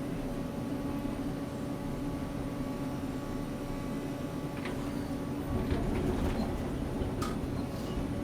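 Sany excavator's diesel engine running steadily under hydraulic load during finish grading, swelling for about a second past the middle. A few sharp clicks and knocks are heard in the second half.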